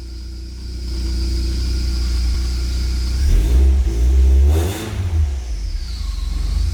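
BMW E36 engine running after starting, revved once about three seconds in and dropping back about five seconds in. It now runs after the fuel pump's poor electrical contact was dealt with.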